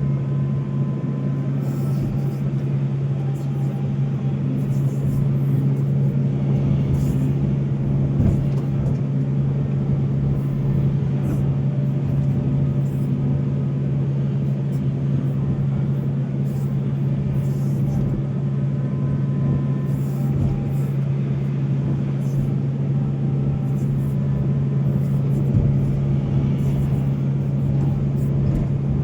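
Volvo excavator's diesel engine running steadily at a constant working speed, with scattered short clicks and knocks over the drone.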